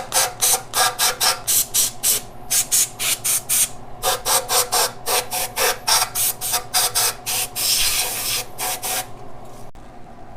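Sandpaper rubbed back and forth by hand on a metal mating flange, in quick strokes about five a second, with one longer stroke near the end before it stops.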